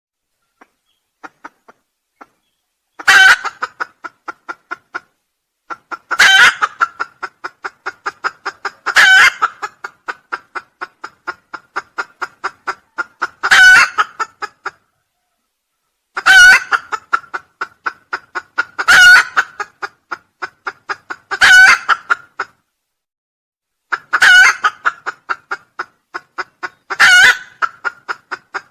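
Junglefowl crowing, loud harsh calls every few seconds, about nine in all, each followed by a run of short, evenly repeated clucking notes.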